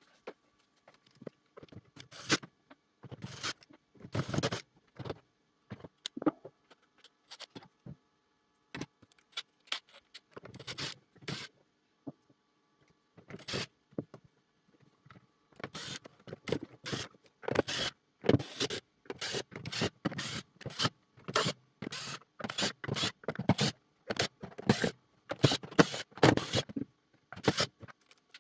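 Hands working on a robot vacuum's plastic parts: repeated clicks, knocks and scrapes, scattered at first and coming thick and fast in the second half.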